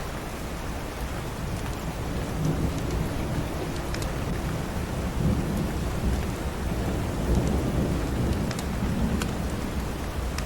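Steady heavy rain with a long low rumble of thunder that builds a couple of seconds in and swells through the middle. A few sharp pops of a crackling wood fire sound over it.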